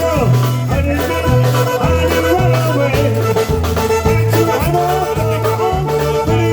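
Live polka band playing: held accordion notes over a bass line that alternates between two low notes on a steady drum beat.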